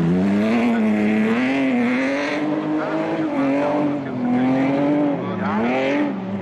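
Rally car engine at high revs, its pitch rising and falling as the driver accelerates and lifts through the stage, with brief drops in pitch about four and five seconds in.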